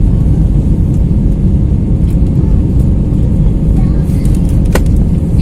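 Airplane taking off: a steady, loud, low rumble of engines and rushing air, with a single sharp click near the end.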